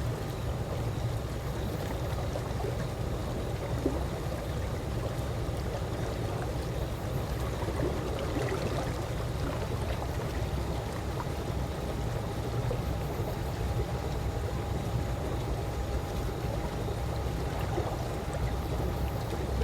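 Calm swimming-pool water, gently lapping and trickling over a steady low rumble.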